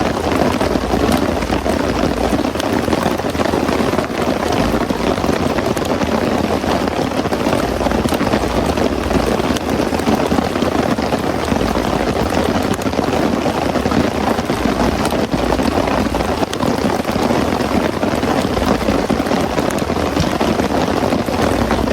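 Heavy rain pouring steadily: a dense, even hiss of falling water with many single drop hits ticking through it.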